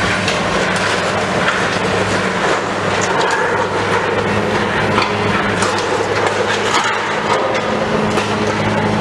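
Demolition machinery at work: a heavy machine's engine runs steadily with a constant hum, under a continuous clatter and crunching of breaking debris with scattered sharp knocks.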